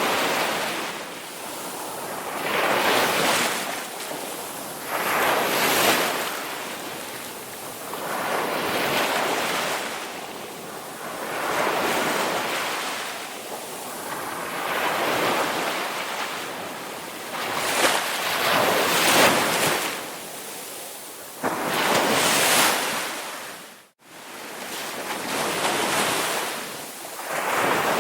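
Ocean waves washing in and out in steady swells, one about every three seconds, the sound cutting out for an instant near the end.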